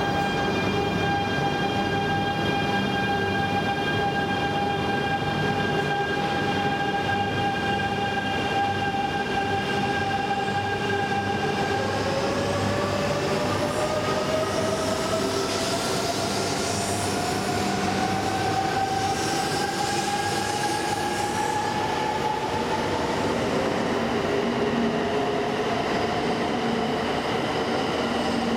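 Coupled E3 series and E2 series Shinkansen train pulling out, its electric traction motors giving steady tones that give way, about halfway through, to a whine rising steadily in pitch as the train accelerates, with a swelling hiss of the train running past.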